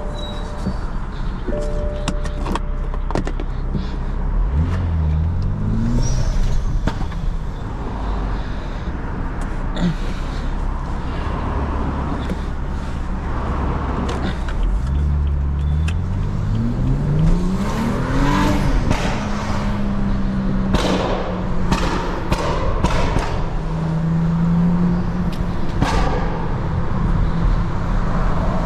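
Car engine accelerating hard, its note rising steeply twice and then holding at a steady cruise, with several sharp cracks in the second half.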